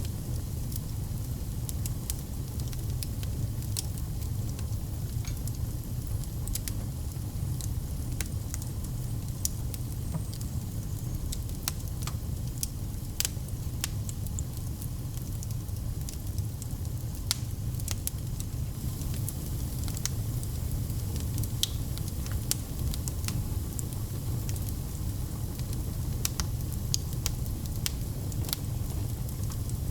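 Wood fire burning in a fireplace: a steady low rumble with frequent sharp crackles and pops at irregular moments.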